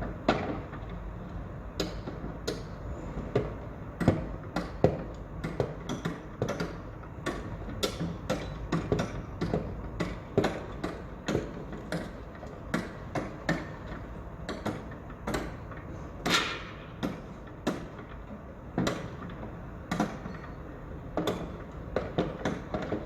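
Construction-site sound: irregular knocks and clanks, one to three a second and of varying loudness, over a steady low rumble.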